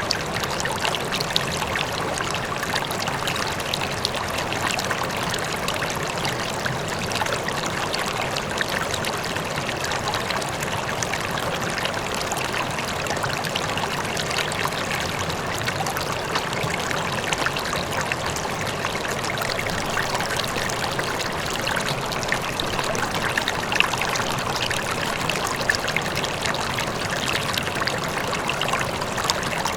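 River water flowing steadily over rocks, a constant rushing and splashing, with a faint waterfall in the distance.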